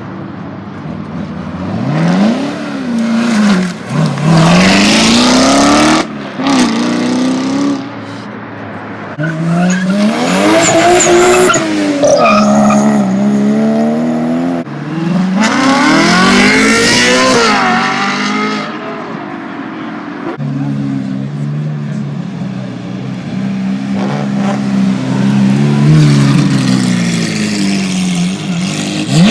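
Sports car engines revving hard, the pitch sweeping up and dropping back several times, then running at a steadier, lower pitch with smaller blips of throttle near the end.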